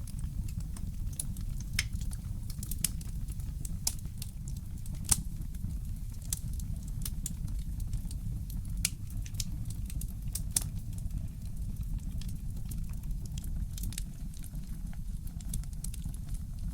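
Wood fire crackling: irregular snaps and pops, a few louder than the rest, over a steady low rumble.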